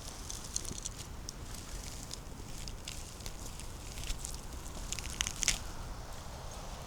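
Footsteps on a forest floor, with irregular crunches and crackles of dry leaves and twigs underfoot and a louder crackle late on.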